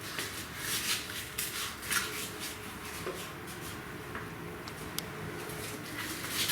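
Fire crackling in a brick fireplace as cardboard and firewood catch: irregular sharp snaps over a low hiss, denser in the first few seconds, with one louder snap about five seconds in.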